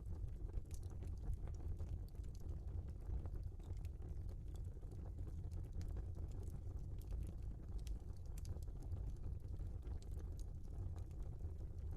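Log fire crackling in a fireplace: scattered sharp pops and snaps over a steady low rumble of the burning.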